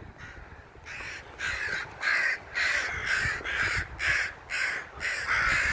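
Crows mobbing a person who came too close, giving a rapid run of harsh caws, about two a second, that begins about a second in.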